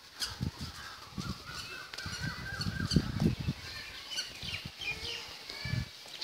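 Birds calling outdoors, with a run of quick repeated calls about two to three seconds in, over irregular low thumps.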